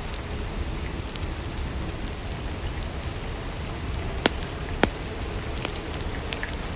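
Steady rainfall, an even hiss dotted with small drop clicks, with two louder sharp clicks a little past the middle.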